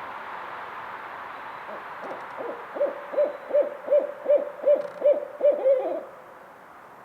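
Barred owl hooting: a quick run of about nine even hoots, roughly three a second, ending on a wavering note. A steady background hiss drops away as the hooting ends.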